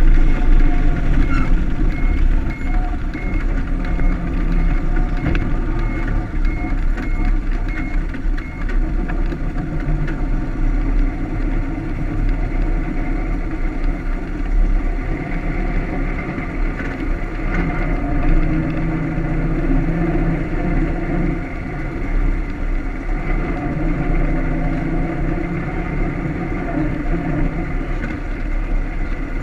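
1925 Ford Model T's four-cylinder side-valve engine running on the road, with wind rumbling on the microphone. For the first several seconds a vehicle's reversing beeper beeps about twice a second.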